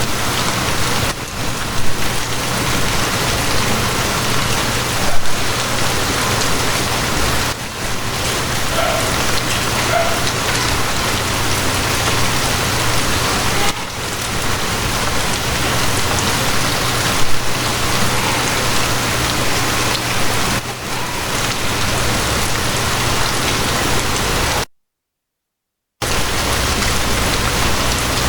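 Steady heavy rain hiss with a low steady hum underneath and a few brief louder spikes; the sound cuts out to silence for about a second near the end.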